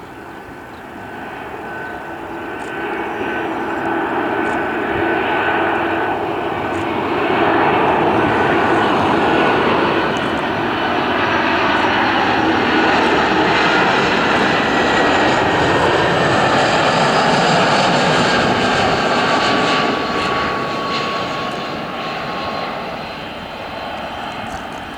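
Jet airliner passing: its engine noise builds over several seconds, holds loud, then fades towards the end, with a whine that drifts slightly down in pitch as it goes by.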